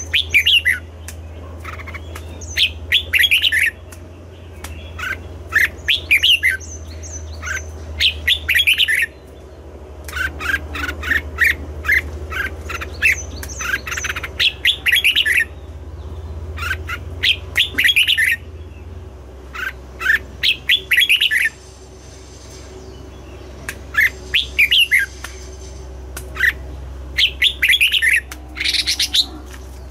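Red-whiskered bulbul singing: short phrases of quick, bright chirping notes repeated every second or two, with a steady low hum underneath.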